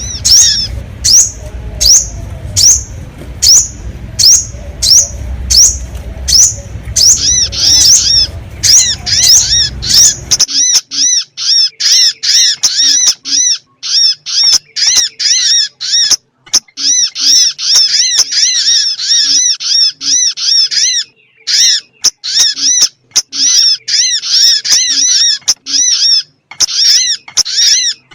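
Sogon bird lure call: high, arching notes repeated about twice a second over a low rumble. About ten seconds in, the rumble cuts out and the calls become a dense, near-continuous chatter.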